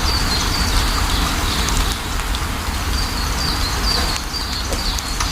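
Steady rain falling, with a deep rumble under it and a bird calling in short, repeated falling chirps: one run in the first couple of seconds and another past the middle.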